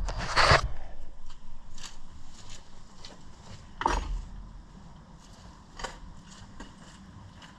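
Scattered clicks and clanks of hand tools on metal during engine teardown work, with a louder knock about half a second in and another near four seconds in.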